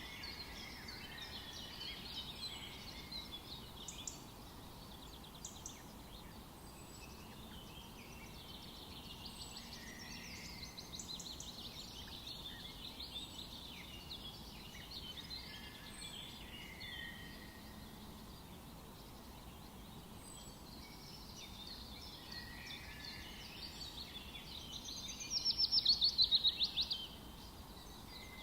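Several birds singing and calling in a forest, overlapping chirps and trills over a faint steady background hiss, with one louder rapid trill near the end.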